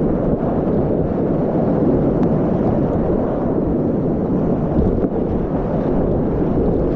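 Whitewater rapids rushing, a loud, steady churn of water with no let-up.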